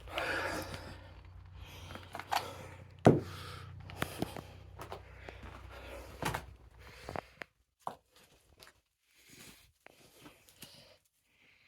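Scattered footsteps, knocks and scuffs of a person moving about a small, bare room, with one sharp knock about three seconds in. A low steady hum under them stops about seven seconds in.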